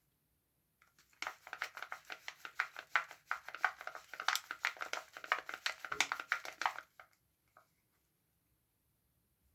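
Soap packaging crinkling as it is unwrapped by hand: a dense run of quick crackles that starts about a second in, goes on for about six seconds, then stops.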